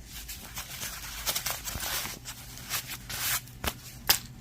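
Rustling and handling of a small pouch as it is opened, with a couple of light clicks near the end.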